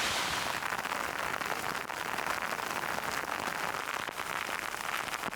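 Heavy rain falling on a hard surface: a dense, steady hiss of many fine drop impacts, with no one speaking.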